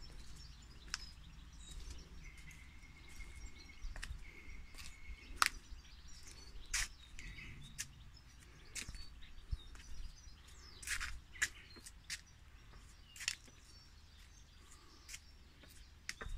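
Quiet garden ambience: scattered short bird chirps and clicks over a low steady rumble. About two seconds in, a thin steady whistle sounds for about three seconds, broken once.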